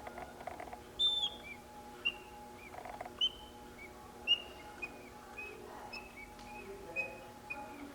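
Vintage ELPA West German singing-birds automaton whistling its mechanical birdsong: a run of short, high chirps about once or twice a second, the longest and loudest about a second in.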